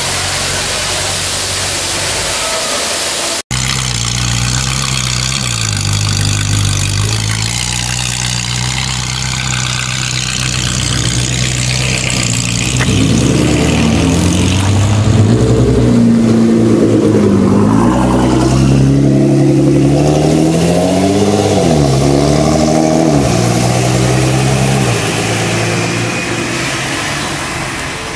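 A tuned performance car's engine idling, then revved hard several times, each rev rising and dropping back, before settling.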